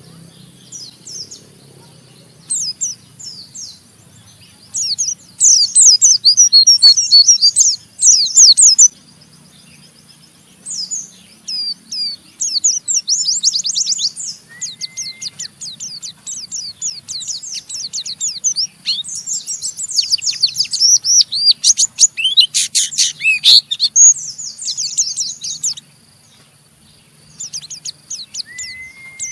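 White-eyes (pleci) giving their rapid, harsh twittering (ngeriwik) in dense high-pitched bursts, with short gaps between them. A brief lower whistle comes twice, about halfway through and near the end.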